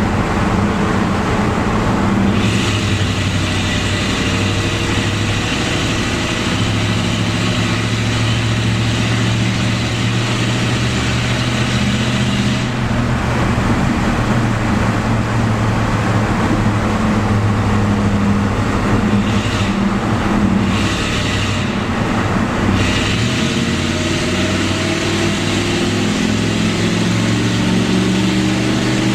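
1987 Pontiac Firebird Trans Am's 5.7-litre V8 running loud and steady through its exhaust inside a long road tunnel. Its pitch rises over the last few seconds as the car accelerates.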